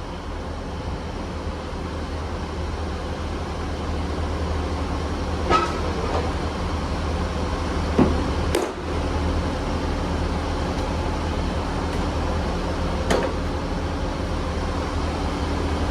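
Class 158 diesel multiple unit standing at the platform with its engines idling: a steady low hum that slowly grows louder, with a few short sharp clicks over it.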